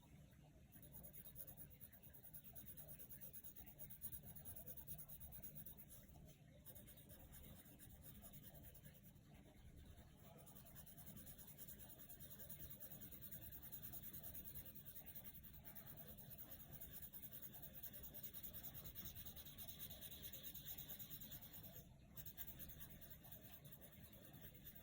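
Faint, steady scratching of coloured pencils stroking across paper as a picture is coloured in.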